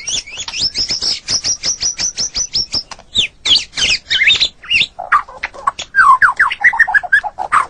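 White-rumped shama (murai batu) singing a long, varied song: a fast run of high repeated notes, about eight a second, for the first three seconds, then mixed whistled phrases, and later a series of lower down-slurred notes.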